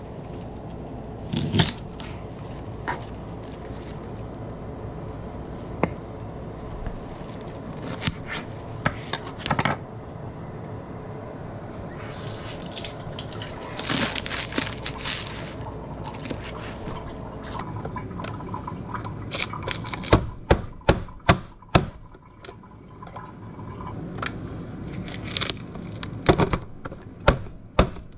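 Water running and dripping with scattered clatter, then, about twenty seconds in, green onions being chopped: two runs of sharp, even knocks, about two to three a second.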